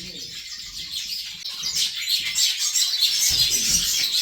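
Pet birds chirping and twittering rapidly in a dense, high-pitched stream that grows busier and louder partway through.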